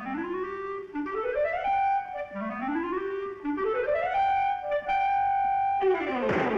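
Cartoon music score led by a clarinet playing a series of rising glissandos, four upward slides, the last settling into a held high note. Near the end a short noisy downward swoop cuts across it.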